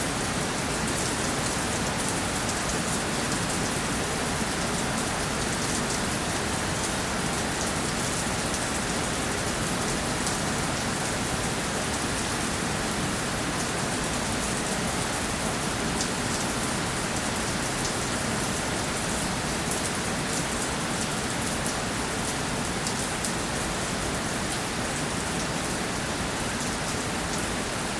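Steady rainfall, with many fine drop patters on a surface over an even hiss.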